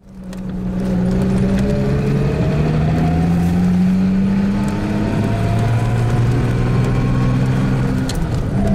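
A car engine running under load, fading in at the start, its pitch rising slowly and steadily; near the end the pitch briefly dips and jumps, as at a gear change.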